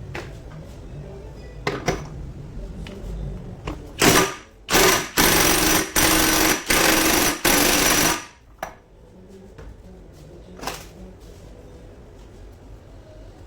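Pneumatic air tool, most likely an impact wrench, run in about six short loud bursts over some four seconds in the middle. Small clicks and knocks of metal parts being handled come before and after.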